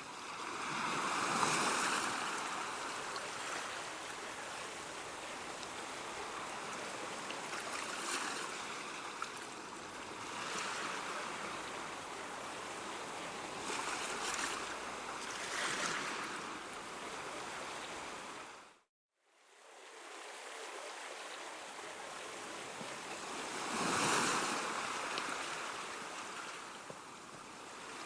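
Ocean surf: waves breaking and washing in, swelling every few seconds over a constant rushing wash. About two-thirds of the way through the sound cuts out completely for about a second, then fades back in.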